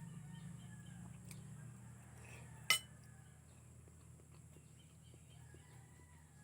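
A single sharp clink of a spoon against a dish about three seconds in, with a few faint small taps of eating utensils, over a steady low hum and a steady high hiss.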